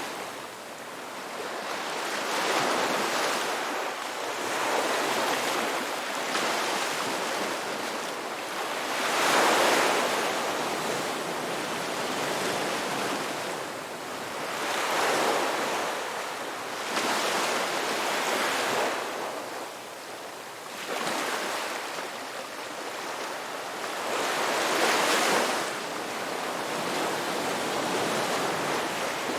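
Ocean waves breaking on a beach, a continuous wash of surf that swells with each breaking wave every few seconds.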